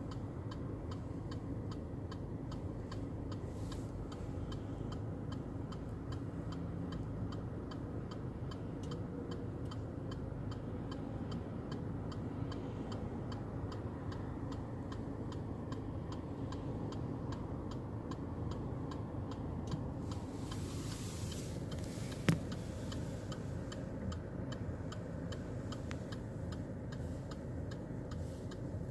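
Rapid, regular ticking, a few ticks a second, over a steady low rumble, with one sharper click about 22 seconds in.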